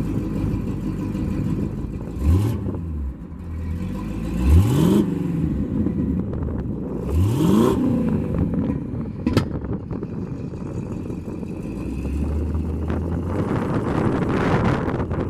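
Rebuilt 350-cubic-inch V8 of a custom 1931 Ford Model A pickup idling, revved up briefly three times, about two, four and a half, and seven seconds in.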